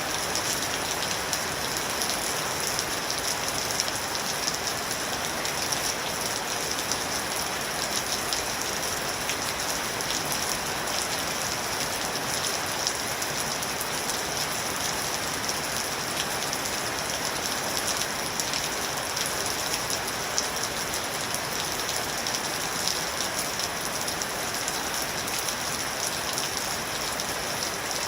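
Steady rain falling, an even hiss flecked with fine scattered drop ticks.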